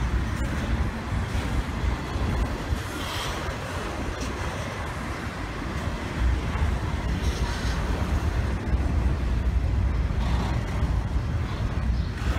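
Freight train of double-stack container cars rolling slowly past close by: a steady low rumble of the wheels on the rails.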